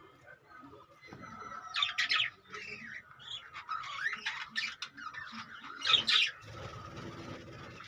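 Budgerigars chirping and chattering in short bursts, the loudest calls about six seconds in.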